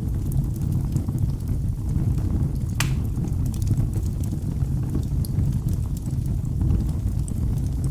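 Wood fire in a fireplace crackling: a steady low rumble of burning with scattered small pops, and one sharper pop about three seconds in.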